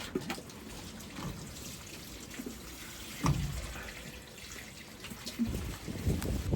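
Rain dripping and pattering as scattered small drops over a steady wet hiss, with low knocks and rustles of handling about three seconds in and again near the end.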